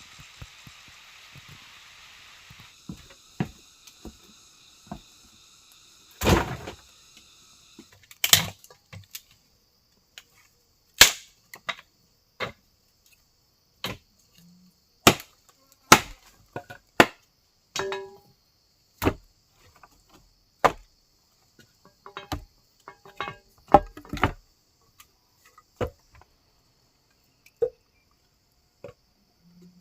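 Repeated sharp chopping strikes, irregular and roughly one or two a second, the loudest two coming about six and eight seconds in.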